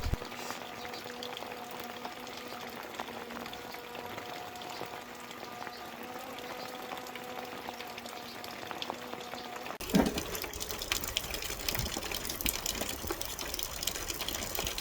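Heavy rain with water pouring and splashing, under a faint steady hum for the first ten seconds or so. The sound then changes abruptly to louder rain, thick with the ticks of drops hitting.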